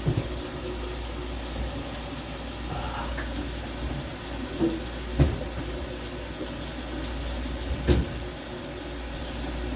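Kitchen faucet running steadily, with a few light knocks of kitchenware about halfway through and near the end.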